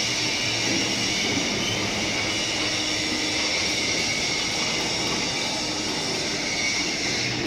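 Steady factory-floor machinery noise: a continuous even hiss with a faint low hum underneath, holding at one level throughout.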